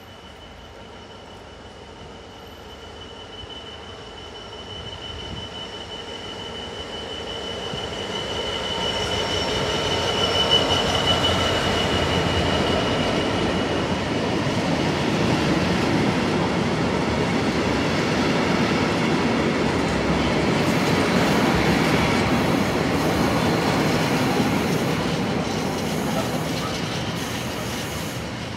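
Class 66 diesel freight locomotive, a two-stroke V12, approaching and passing with a train of empty container flat wagons, growing louder over the first ten seconds. A steady high whine fades out about halfway through, and the wagons then rumble and clatter past on the rails.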